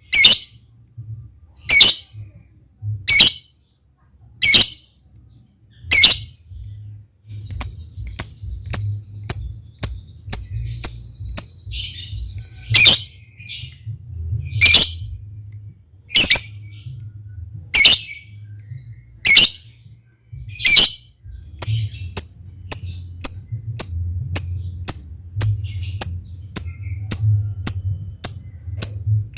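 Lovebird calling: loud, sharp, high shrieks about every second and a half. From about eight seconds in, a quicker run of short chirps joins them, the ticking call ('ngetik') used to lure other lovebirds into singing, and it becomes a steady rapid series in the last third.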